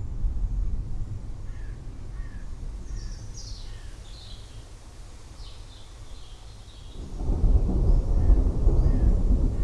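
Rolling thunder rumbling deep and low, fading away, then a new, louder peal of thunder building about seven seconds in. Birds call briefly in the lull between them.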